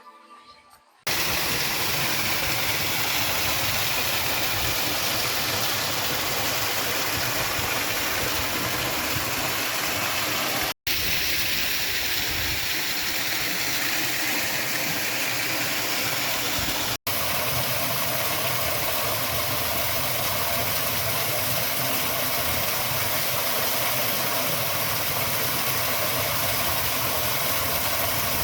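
Steady, loud rush of falling water from a waterfall close to the microphone, an even hiss that fills the sound. It cuts in about a second in as faint music ends, and breaks off for an instant twice.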